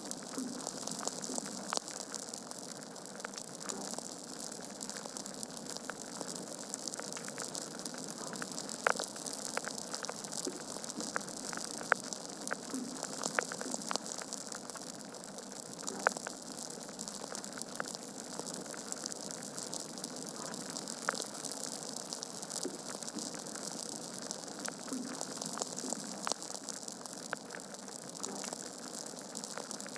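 Wood fire burning in a fireplace: steady crackling with scattered sharp pops from the logs, a few of them louder than the rest.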